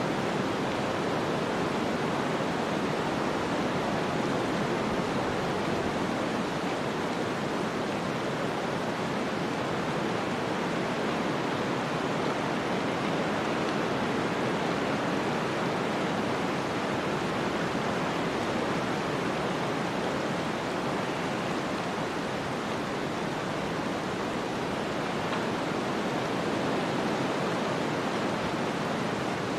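Snowstorm ambience: a steady, even hiss of storm noise with no gusts or separate events.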